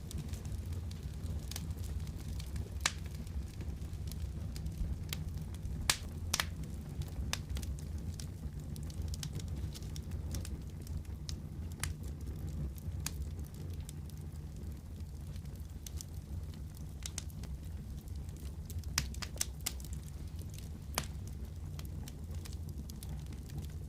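Fireplace fire crackling: a steady low rumble of the flames with irregular sharp pops and snaps, a few of them louder than the rest.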